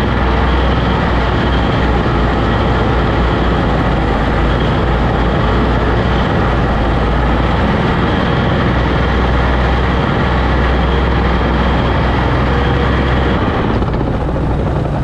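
Oliver OC-6 crawler tractor running steadily with a loud, deep engine rumble.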